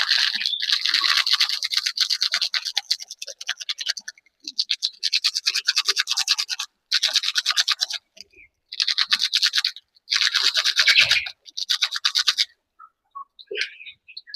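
Fast scraping strokes, like brushing, in about six bursts of one to four seconds that stop shortly before the end: a container's contents being mixed by hand while the vaccine water is prepared.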